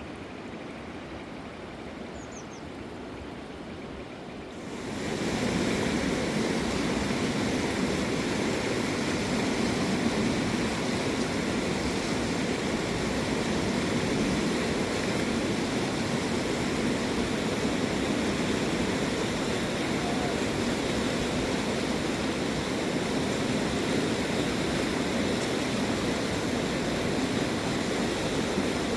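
Fast-flowing river water rushing, a steady noise that turns clearly louder about four and a half seconds in and then holds steady.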